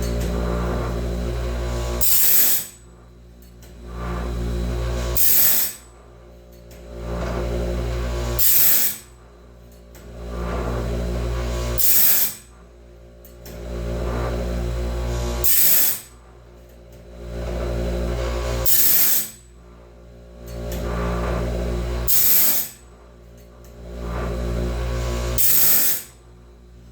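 DIY bandsaw band sharpener running: a motor-driven grinder hums steadily, and about every three seconds a short, sharp high-pitched grinding burst is followed by a sudden drop in loudness for about a second before it builds again, a tooth-by-tooth sharpening cycle. The cycle repeats eight times.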